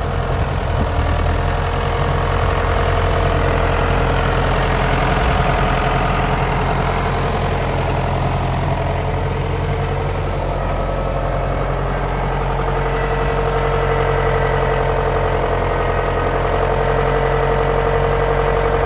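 John Deere 6205 tractor's diesel engine idling steadily.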